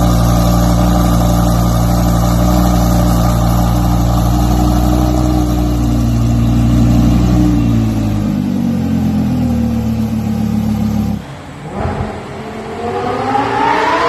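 Lamborghini Huracán's V10 through an iPE aftermarket exhaust, holding a steady note, then its pitch winding down over a few seconds. After a sudden break about eleven seconds in, it accelerates with the pitch rising.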